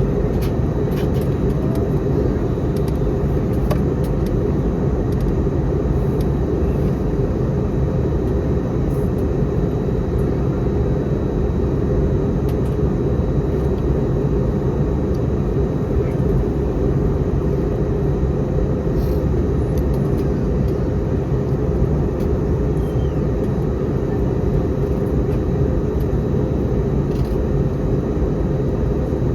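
Steady engine and cabin noise inside an Airbus A321neo airliner, a loud even rumble with faint light ticks now and then.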